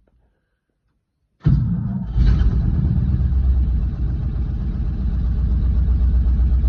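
1963 Ford F600 truck engine cold-starting: it comes in suddenly about a second and a half in, revs briefly, then settles into a steady, rumbling run.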